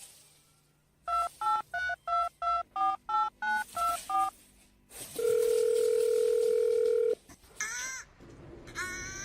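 Telephone keypad tones: about a dozen quick dialled digits, each a short two-note beep, then a steady tone held for about two seconds. Three short sweeping calls follow near the end.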